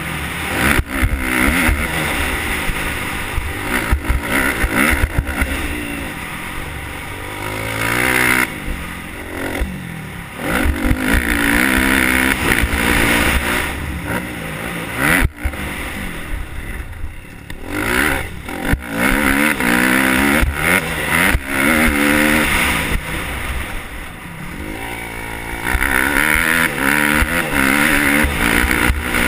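Motocross bike engine revving hard through a lap, its pitch climbing repeatedly under acceleration and dropping off between pulls, with frequent knocks and clatter from the bike over the rough track.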